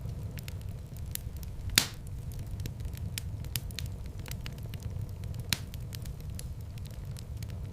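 Wood fire in a fireplace crackling, with many small snaps over a steady low rumble of flames. Two louder pops stand out, the loudest about two seconds in and another at about five and a half seconds.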